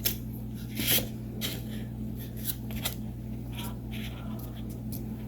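Paper being handled: a glued paper cutout pressed and rubbed down onto a paper plate, a few soft rustles and taps over a steady low hum.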